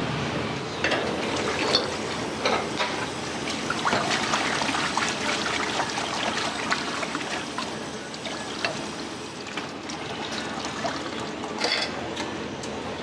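Water running and splashing in a restaurant kitchen, with scattered sharp clinks and knocks of utensils and dishes.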